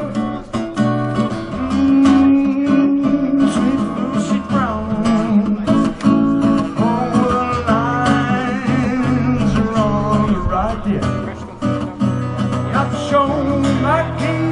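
Live acoustic guitar music, strummed chords with a melodic line of bending notes over them, in an instrumental passage without words.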